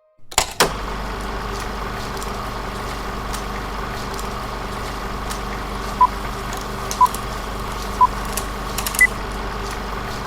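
Steady hiss with a low hum, starting after a click. About six seconds in come three short beeps a second apart, then one higher-pitched beep.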